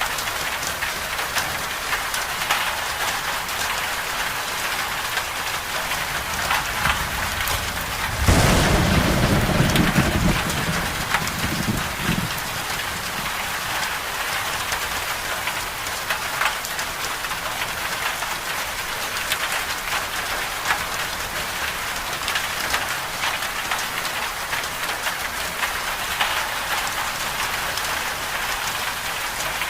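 Steady moderate rain falling on a surface, with a clap of thunder about eight seconds in that rumbles low and fades out over about four seconds.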